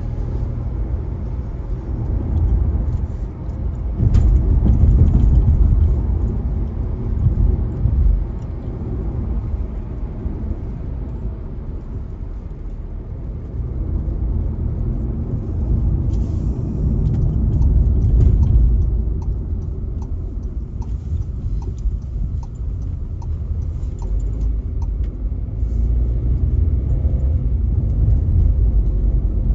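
A car driving on wet streets, heard from inside the cabin: a steady low rumble of engine and tyres that swells and eases. In the second half there is a run of light, evenly spaced ticks, about one and a half a second.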